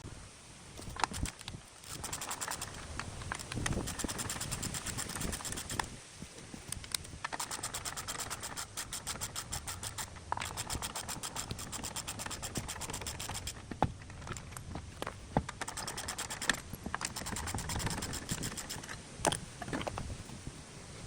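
Rhythmic scraping from a Lexus GS350 F Sport's brakes as the wheel turns, coming in stretches of a few seconds with a fast ticking pulse and a few sharper clicks.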